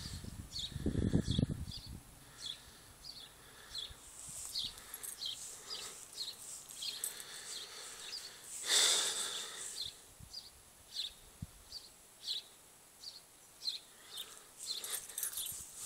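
Small birds chirping outdoors: short, high chirps repeating about twice a second. There is a low rumble about a second in and a brief, louder rush of noise about nine seconds in.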